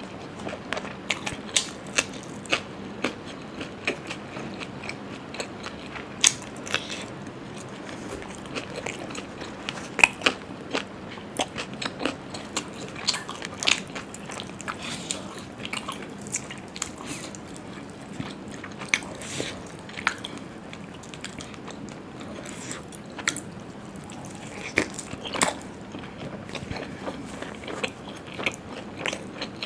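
A person chewing and biting food close to the microphone, with frequent sharp wet mouth smacks at irregular intervals.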